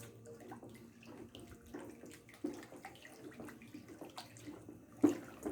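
Soap mixture of tallow, used cooking oil, lye and ethanol being stirred with a paddle in a bucket: liquid sloshing with irregular light knocks of the paddle against the bucket, and one sharper knock near the end. The mix has changed colour and is starting to saponify.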